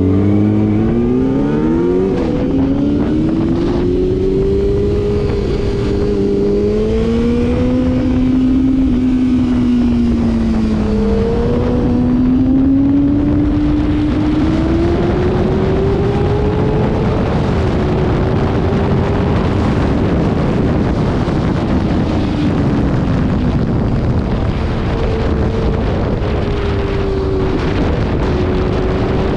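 Motorcycle engine at speed on a race track, its pitch climbing and dropping repeatedly as it accelerates and shifts gear, under a heavy rush of wind noise that thickens in the second half.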